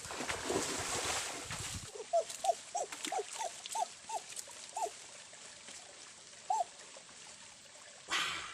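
About two seconds of rustling, then an animal giving a quick run of about ten short, arched calls, roughly three a second, and one more call a couple of seconds later. A brief rustle comes near the end.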